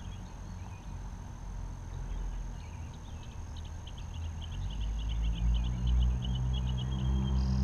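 A bird sings a rapid run of high chirps through the middle. In the second half a low engine hum swells louder, as of a motor vehicle drawing near.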